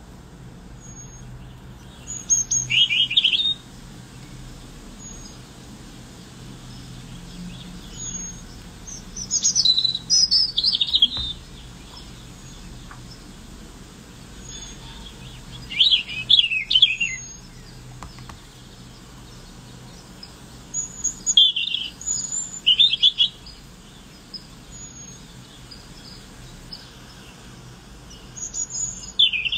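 A songbird singing five short phrases, about one every six to seven seconds, each a quick run of high notes falling in pitch, with a few faint single chirps between them. A faint steady hum runs underneath.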